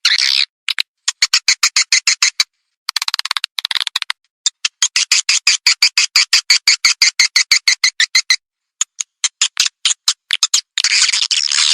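Swiftlet calls from a swiftlet-house lure recording: rapid trains of sharp, buzzy chirping clicks in bursts of one to four seconds, broken by short dead-silent gaps. This is a 'call' sound played to attract swiftlets to nest.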